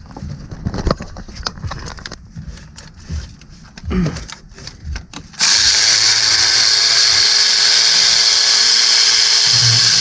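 Small knocks and clatter of a socket being fitted, then about halfway in a cordless power tool starts and runs steadily, loud and even, spinning out the 18mm bolt on the timing cover of a 3.6L V6.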